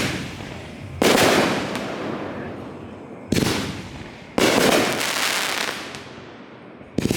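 Fireworks going off in a display: loud sharp bangs about a second in, at three and a half seconds and at four and a half seconds, and again near the end. Each bang fades away over a second or two.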